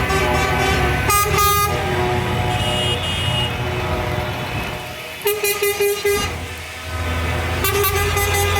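Tractor engines running steadily with horn toots over them: a short blast about a second in, a quick series of toots past the middle, and another blast near the end.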